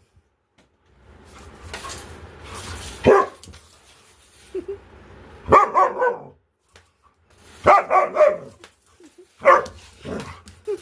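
A dog barking in short bursts: one bark about three seconds in, then quick runs of barks around the middle, and more barks near the end.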